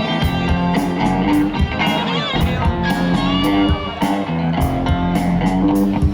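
Live rock band playing: electric guitar lines over drums keeping a steady beat.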